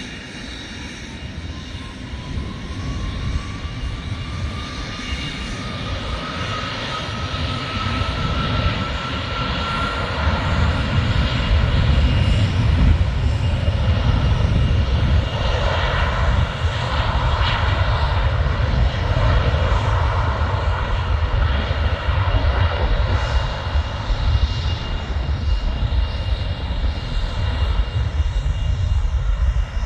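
Airbus A330 airliner's jet engines: a whine that rises in pitch as the sound builds over the first ten seconds, then a loud, steady low rumble.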